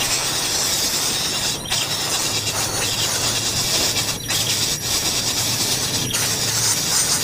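A steady, loud, high-pitched hiss that drops out briefly three times.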